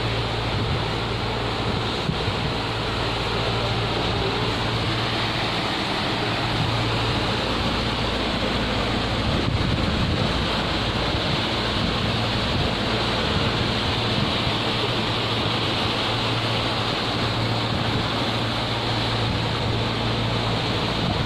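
A boat under way: water rushing and wind buffeting the microphone, over a low, steady engine drone.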